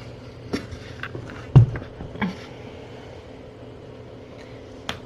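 A few light knocks and one louder, dull thump about one and a half seconds in: bedding and a pillow being handled and set down in the kittens' bed.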